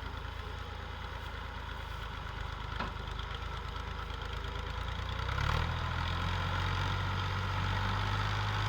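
Gazi diesel tractor engine labouring steadily while hauling a loaded sugarcane trolley through mud. About five and a half seconds in it grows louder and deeper as it takes more power.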